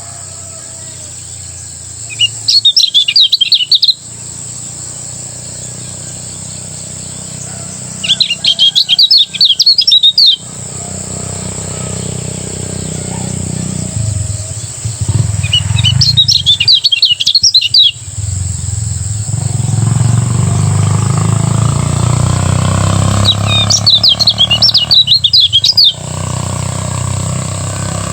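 Kecial kuning singing in four loud bursts of rapid twittering song, each lasting about two seconds, a few seconds apart. A steady low hum and a high hiss run underneath.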